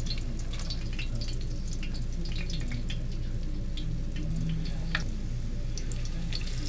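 Beer-battered squash slices frying in hot oil in a cast iron skillet: a steady crackle of scattered small pops as the slices go in. A low steady hum runs underneath.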